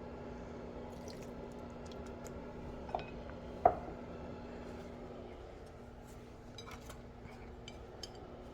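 Kitchen utensil knocking against cookware twice about three seconds in, the second knock the loudest and ringing briefly, then a few light clicks, over a steady low hum.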